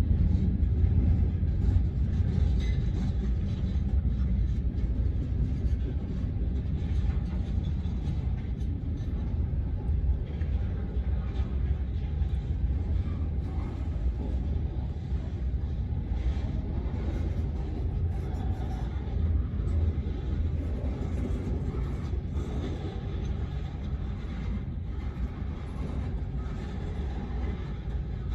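Freight train rolling past, a steady rumble of cars on the rails that eases slightly over the stretch.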